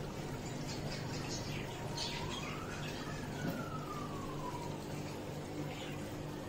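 A siren wailing, its single tone slowly falling and rising over a few seconds, with short bird chirps over it and a steady low hum underneath.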